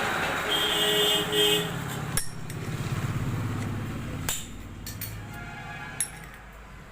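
Metal motorcycle engine parts clinking and knocking during crankshaft bearing work, with a sharp knock about two seconds in, a low rattle after it, and single clicks later.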